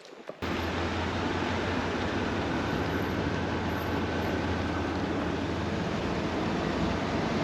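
Steady rushing noise with a strong low rumble, cutting in abruptly about half a second in and holding evenly throughout.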